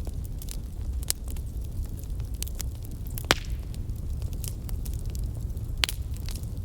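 Wood fire crackling in a fireplace: a steady low rumble under frequent sharp pops and snaps, with a loud pop about halfway through and another near the end.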